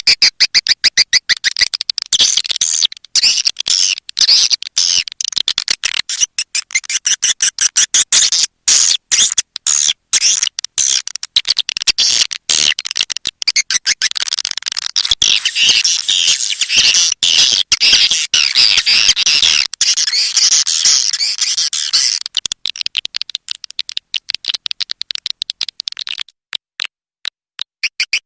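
Swiftlet-house lure call: rapid, dense twittering chirps of edible-nest swiftlets, high-pitched and continuous, thinning out and breaking into short gaps near the end.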